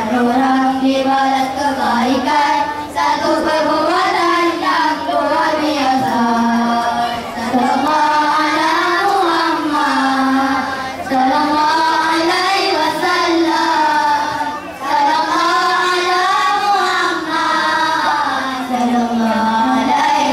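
A group of young boys singing a song together into microphones, a melody of long held notes in phrases with short breaths between them.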